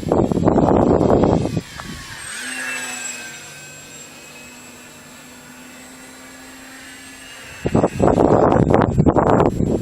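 Electric motor and propeller of a Multiplex Blizzard RC plane whining in flight, its pitch falling as it passes about two to three seconds in. Loud wind rushes over the microphone at the start and again from near the end.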